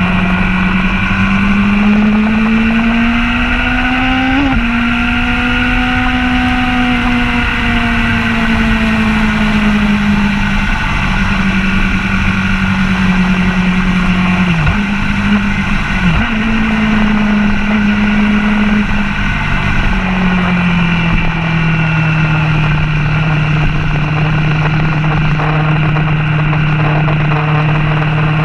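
Sport motorcycle engine heard from a camera mounted on the bike at track speed: it pulls up in pitch under acceleration, breaks sharply for a gear change about four and a half seconds in, then eases off gradually. Two more quick breaks come around the middle, then it runs steady. Wind rush runs underneath.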